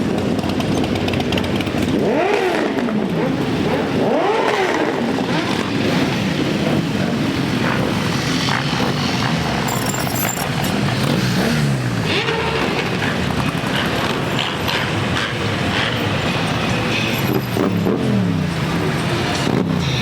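A stream of motorcycles riding past in a parade, the engines running together with several of them revving up and down, each one rising and then falling in pitch.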